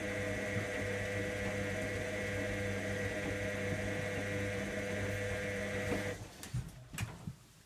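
Electra AWF683 washing machine's motor running with a steady hum, cutting off abruptly about six seconds in, followed by a few faint clicks.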